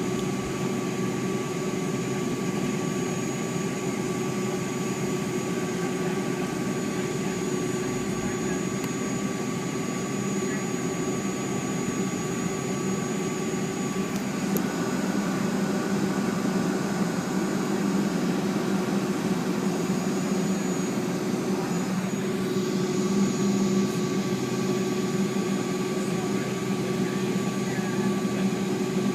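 Steady cabin hum inside a Boeing 757-200 airliner before takeoff: a rush of air with several steady whining tones over it, growing slightly louder about halfway through.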